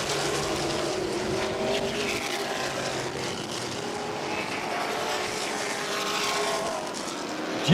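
Modified race cars running laps around an oval short track, their engines making a steady, blended drone.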